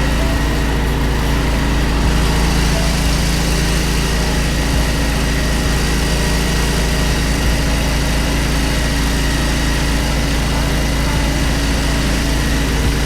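Hydro jetter's engine and high-pressure pump running steadily while the jet hose is worked along a clogged sewer line, an even hum that does not change.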